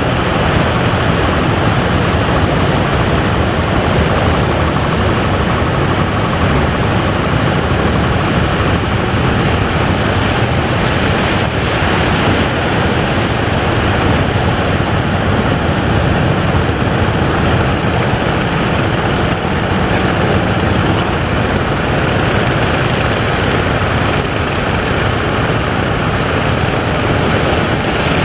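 Surf breaking with wind buffeting the microphone: a loud, steady rushing noise.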